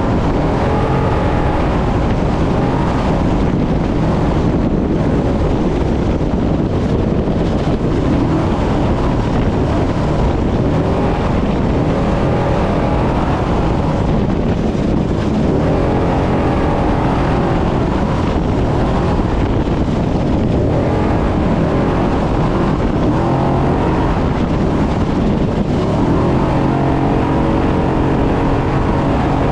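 Brenthel 6100 trophy truck's engine running hard off-road, its pitch rising and falling again and again with the throttle, over a constant heavy rumble and wind noise on the microphone.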